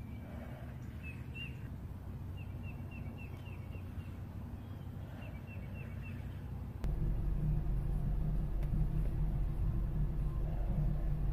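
Small bird chirping in quick runs of short, high notes over a low, steady background hum. About seven seconds in, the sound changes abruptly to a louder, steady low rumble from inside a car cabin.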